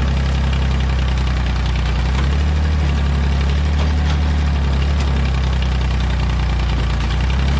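Old Massey Ferguson backhoe's engine running at a steady speed, a loud, even low drone with no change in pitch.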